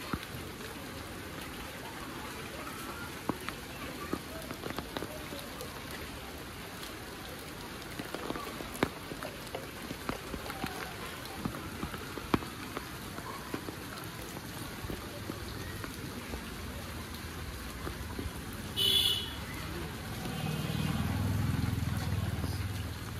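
Steady heavy rain falling, with many sharp drop hits throughout. About nineteen seconds in there is a brief loud high-pitched sound, then a low rumble that swells and fades near the end.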